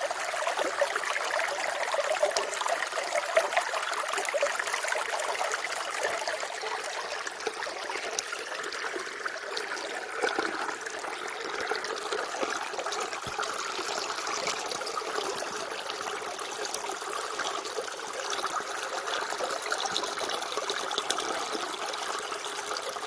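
Water trickling and splashing continuously and evenly, with a constant flickering patter and no pause or change in strength.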